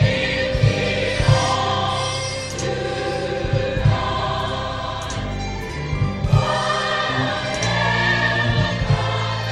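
Gospel choir singing a worship song with instrumental accompaniment: sustained sung phrases over bass and drums.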